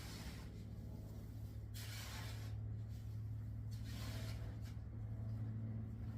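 Donkey manure being scraped up off a barn floor: a few short scraping strokes a second or two apart, over a steady low hum.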